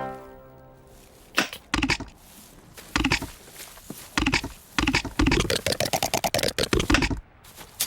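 An irregular series of sharp knocks and clatters, a few scattered at first, then a quick, busy run of them in the second half.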